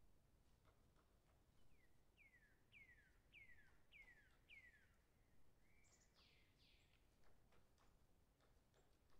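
Faint bird song: a run of about six short falling whistles, roughly two a second, then a longer, harsher call about six seconds in, over faint scattered clicks.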